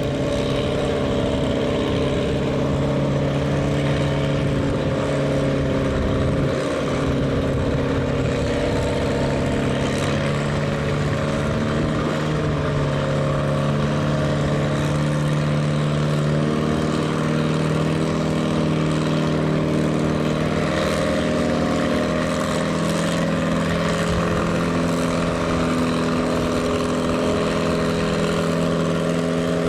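Farm stock pulling tractor's engine running hard at steady high revs under load, pulling the sled down the track; the pitch shifts only slightly a few times.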